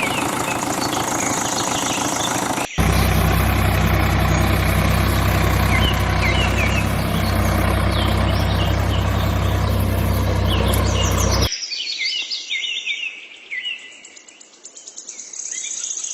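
Small birds chirping throughout. About three seconds in, a steady motor or engine hum starts suddenly under them and cuts off abruptly around eleven seconds in, leaving only the birds.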